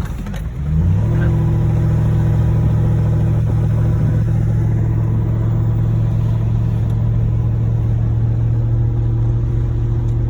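Car engine and drive noise as a car is driven along a sand beach: the engine picks up about a second in, then runs at a steady note.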